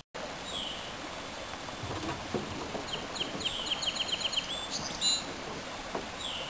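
A songbird calling: a short down-slurred note, then a run of about ten quick notes at an even pace ending in an upward flick, then another down-slurred note near the end.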